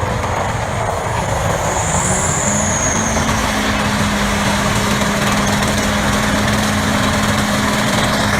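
A machine engine running steadily under load, with a constant drone and a steady hum that settles in about two and a half seconds in.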